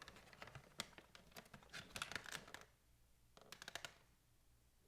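Faint handling noise: scattered small clicks and rustling, with a quick run of clicks about three and a half seconds in.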